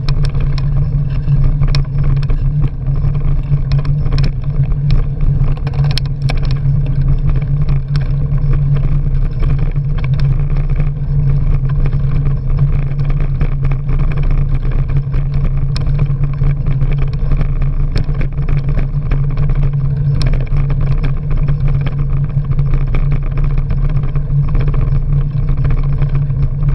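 Bicycle ride on a trail heard from a camera on the bike: a loud, steady low rumble of wind on the microphone and tyres on the path, with scattered small clicks and rattles.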